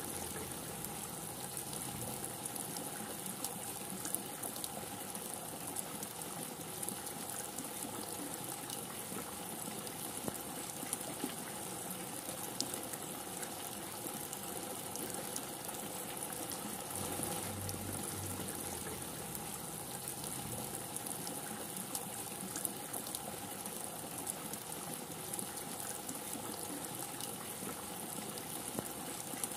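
Steady heavy rain falling, with many small drop ticks throughout and a brief low rumble about seventeen seconds in.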